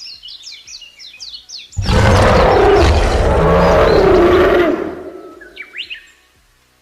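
A bird chirping in quick, repeated falling notes, then a big cat's loud roar about two seconds in that lasts about three seconds and fades away, with a few bird chirps again near the end.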